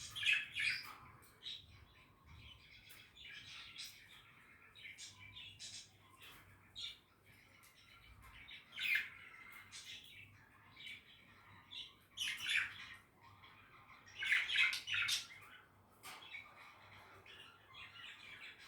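Budgies (parakeets) chirping and chattering, with a few louder squawks scattered through, the loudest near the middle and about three quarters of the way in.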